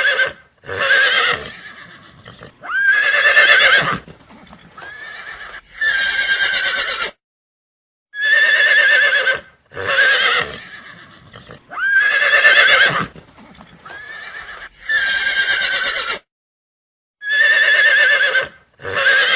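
Loud animal calls: a run of quavering cries, each a second or two long with short pauses between them. The same sequence repeats about every nine seconds, like a looped recording.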